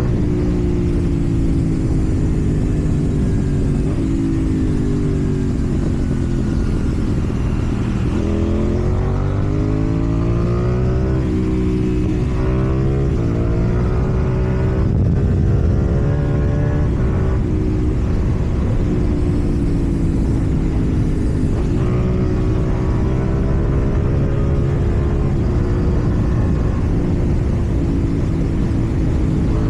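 KTM Duke 790's parallel-twin engine running through a slip-on exhaust. It slows down at first, then accelerates hard about eight seconds in, rising in pitch through several quick gear changes, then settles into a steady cruise.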